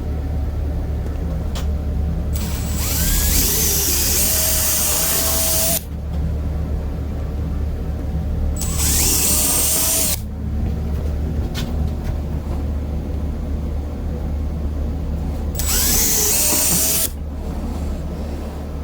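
Electric drill boring a hole through half-inch steel plate. A steady low hum runs throughout, broken three times by loud, harsh cutting noise with a brief squeal as the bit bites into the steel: the first spell lasts about three seconds, the other two a second or so each.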